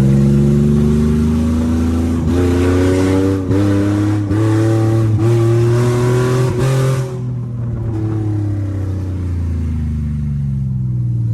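Infiniti G37's 3.7-litre V6 running with no exhaust, pulling hard under acceleration, its note climbing for about seven seconds with about five brief dips as the transmission shifts. The note then falls steadily as the car comes off the throttle.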